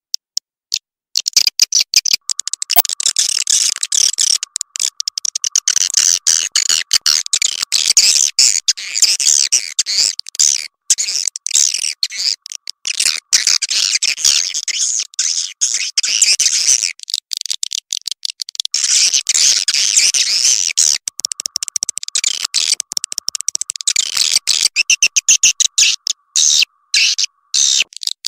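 Swiftlet calls: dense, rapid, high-pitched twittering and clicking chirps that keep going with only brief breaks, the kind of recorded 'suara walet' call played to draw swiftlets into nesting houses.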